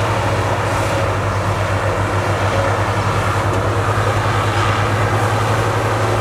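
Heavy diesel engine of earthmoving equipment running steadily: a loud, low drone with a fast, even pulse.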